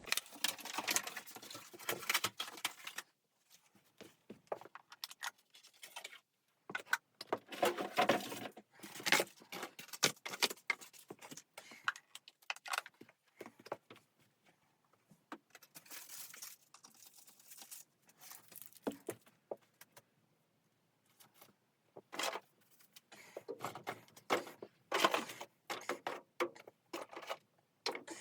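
Irregular clusters of small clicks, crackles and rustling, a few seconds each, with quiet gaps between them.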